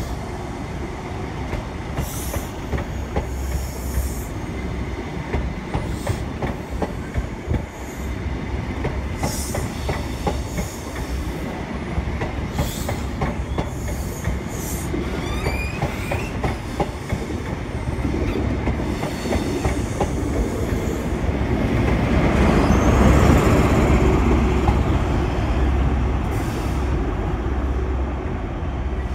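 An InterCity 125 high-speed train pulls out, its Mark 3 coaches rolling past with rapid wheel clicks and short high wheel squeals over a low steady diesel drone. The noise swells to its loudest about three-quarters of the way through as the rear Class 43 power car passes, then eases as it pulls away.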